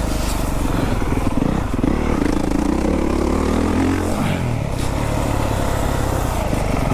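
Four-stroke motocross bike engine being ridden hard, heard close up from the rider's own bike. The engine note climbs for about two seconds near the middle, then drops as the throttle comes off or it shifts up.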